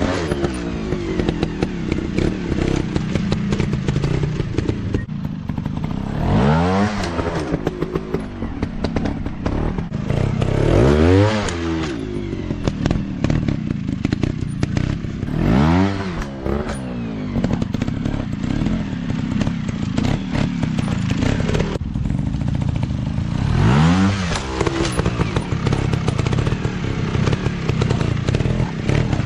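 Dirt bike engine revving hard in repeated bursts, about five times, each rev sweeping up and falling back, over a steady engine drone, with clattering and thuds.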